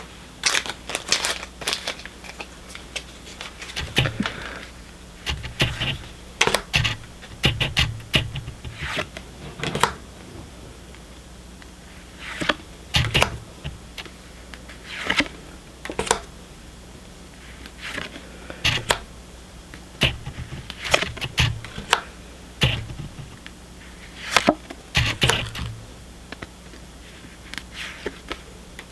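Pokémon trading cards being handled and flipped through one at a time: an irregular run of short clicks and rustles as the cards slide and snap against each other.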